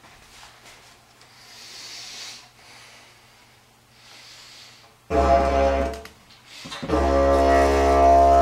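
Didgeridoo drone. About five seconds in, a loud low drone with a rich buzzing overtone stack starts, breaks off for about a second, then starts again and holds steady.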